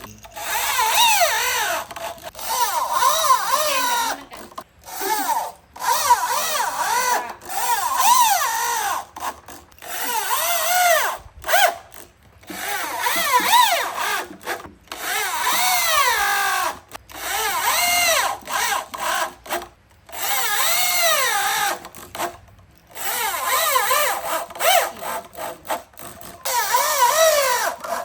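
Power drill running in repeated bursts of a second or two, its whine rising and falling in pitch as it speeds up and slows down, with short pauses between bursts.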